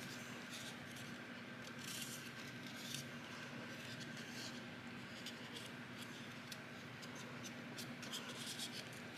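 Faint rustling and small crinkles of paper being accordion-folded into small pleats by hand, over a steady low room hum.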